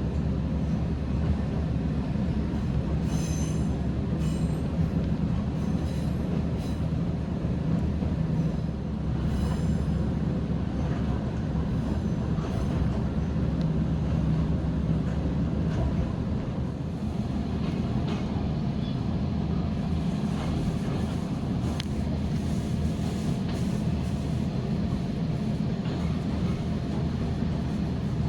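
Electric train of the Toyama Chiho Railway running along the line, heard from on board: a steady low rumble of wheels on track, with brief high-pitched wheel squeals a few times in the first ten seconds.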